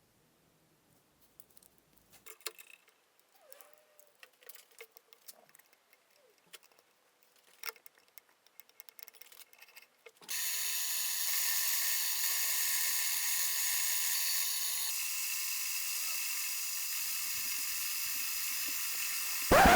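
Light scattered clicks and taps of handling small metal parts. About ten seconds in, a power tool starts and runs steadily with a high whine, stopping just before the end.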